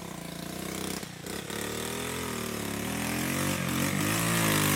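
Small off-road vehicle engine revving hard under load, its pitch climbing and wavering as the revs rise and fall, getting louder toward the end.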